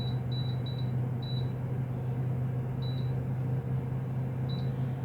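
Air fryer's control panel beeping as its cooking time is stepped down. Several short, high beeps come in quick succession over the first second and a half, then two single beeps follow later, all over a steady low hum.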